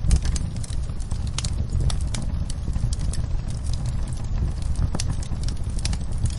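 Wood fire burning in a fireplace: a steady low rumble of the flames with many irregular sharp crackles and pops, one louder pop right at the start.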